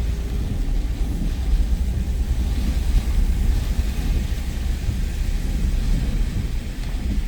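Storm wind buffeting the microphone: a loud, steady low rumble with an even hiss above it.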